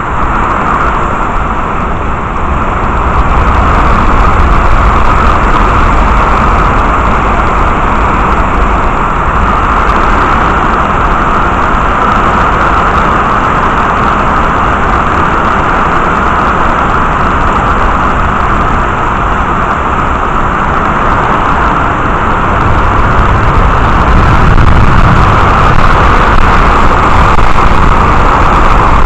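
Heavy rain pouring down in a thunderstorm, a steady loud hiss that swells slightly about four seconds in and again near the end.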